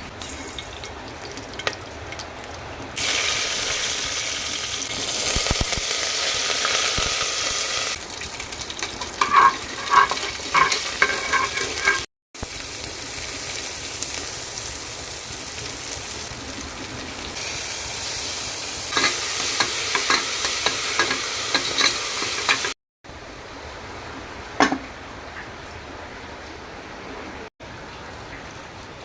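Food frying and being stirred in a pan: a sizzling hiss comes and goes, with quick clinks of a spoon against the metal pot.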